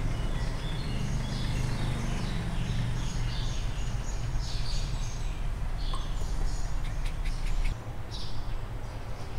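Small birds chirping repeatedly over a steady low rumble, which drops away about three quarters of the way through. A few faint clicks come around the same point.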